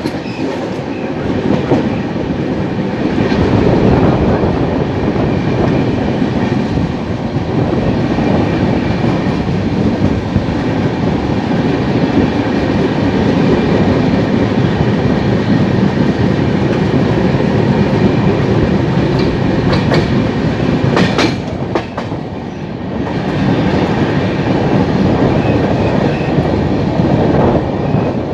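Passenger train running at speed, heard from a coach window: a steady rumble of wheels on the rails with clickety-clack. A few sharper clatters come about twenty seconds in.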